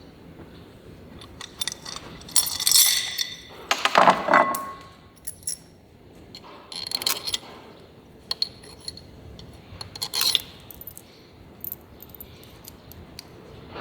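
Small metal objects clinking and rattling in handling, with scattered clicks and a few louder clattering bursts.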